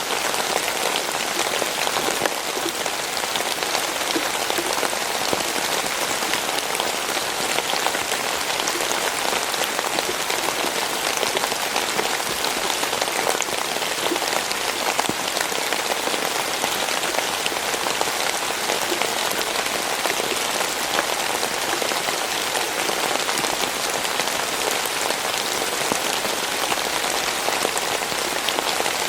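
Steady rain falling, a dense even hiss of rain with many individual drops pattering on a surface.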